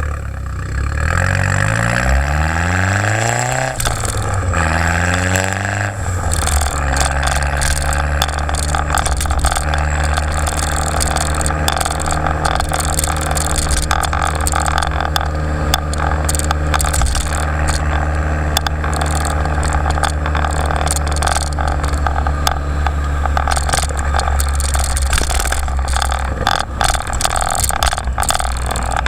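Exhaust of a turbocharged Jetta GLI with a 3-inch downpipe and Magnaflow race muffler. The engine revs up twice in the first six seconds, dropping back each time, then settles into a steady idle.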